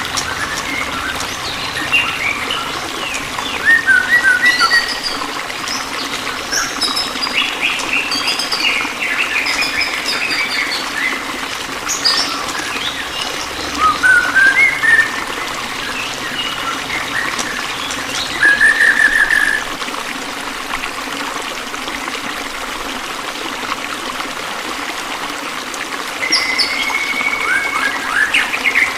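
Several songbirds chirping and calling in short, quick phrases, with rising and falling whistled notes, over a steady background of running water.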